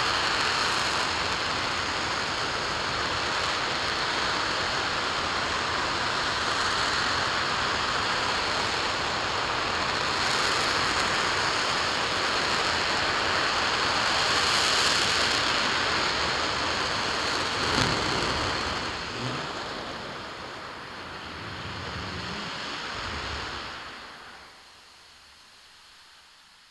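RS-25 liquid-hydrogen/liquid-oxygen rocket engine firing on a test stand, a steady, loud rush of noise. About eighteen seconds in there is a sharp crack, and the noise dies away over several seconds as the engine shuts down, fading out near the end.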